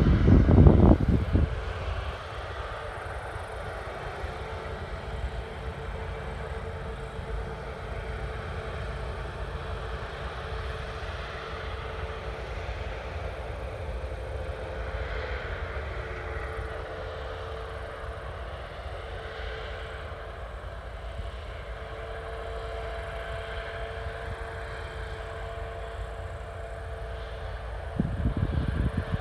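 Harvest machinery running steadily, a constant drone with a held whining tone. Wind buffets the microphone at the start and again near the end.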